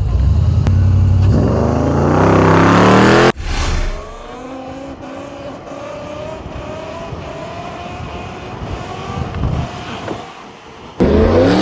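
Dirt bikes launching hard in a race, their pitch climbing steeply as they accelerate. After a sudden cut comes quieter acceleration further off. Near the end a bike passes loud and close, its pitch rising and then falling.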